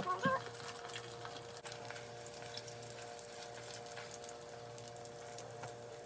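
Pieces of pizza dough frying in hot oil, a steady sizzle with faint crackles over a low steady hum.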